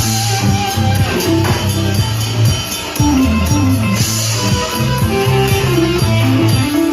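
Live band music: electric guitar over a steady bass line, with drums and cymbals.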